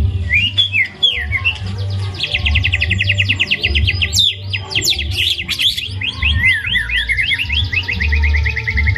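White-rumped shama (murai batu) singing nonstop, a fast, varied song of clear whistles and rapid trills of repeated notes, laced with imitated calls of other birds. A steady low hum runs underneath.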